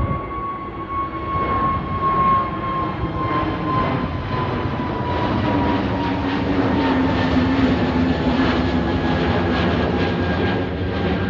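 Jet airliner engines at takeoff power as the aircraft passes: a loud steady rumble with a whine that slowly falls in pitch, growing somewhat louder from about halfway through.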